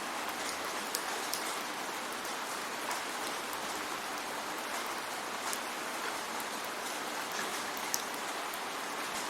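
Steady rain falling, an even hiss with scattered louder drops ticking close by.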